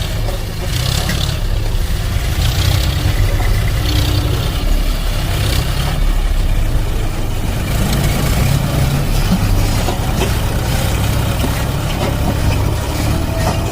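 Heavy vehicle engine running steadily at low revs with a deep, even rumble.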